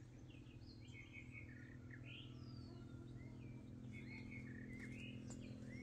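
Faint chirps and short swooping calls of small birds, scattered throughout, over a low steady hum.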